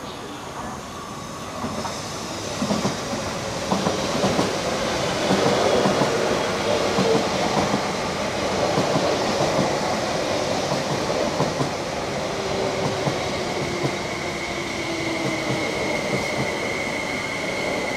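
MTR East Rail electric multiple unit running in along the platform, its wheels clattering over the rail joints, loudest in the middle. A steady high whine joins in over the second half as it slows.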